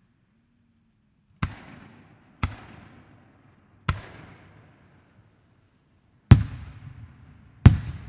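Japanese aerial firework shells going off: five sharp bangs at uneven intervals, the last two loudest, each trailing off in an echo.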